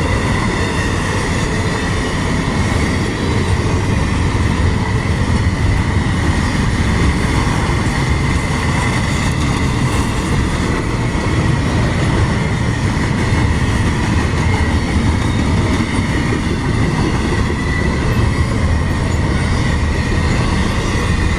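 A long CSX intermodal freight train's cars rolling past at close range: a loud, steady rumble of steel wheels on rail, with a continuous high-pitched wheel squeal.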